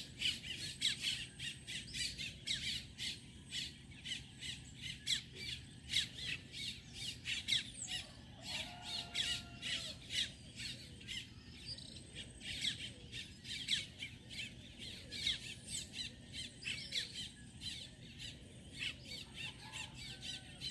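Birds chirping and squawking in a dense, irregular chatter of short high-pitched calls, several a second, with a few lower whistled glides.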